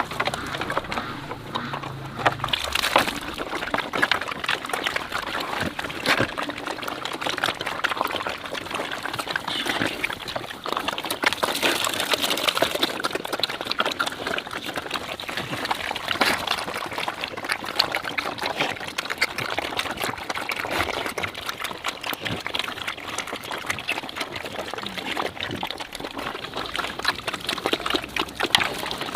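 Water splashing and pouring, with many small knocks and droplet clicks running through it.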